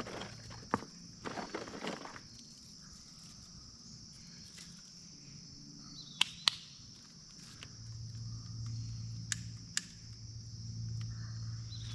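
A steady, high-pitched chorus of insects, with scattered sharp clicks and knocks and a short stretch of footsteps and rustling on the ground near the start. A low hum drops out at the start and comes back about eight seconds in.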